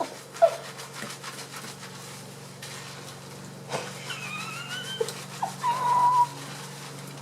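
Revlon One Step hair dryer brush running steadily, with a few short, high whistle-like wavering tones over it about four to six seconds in.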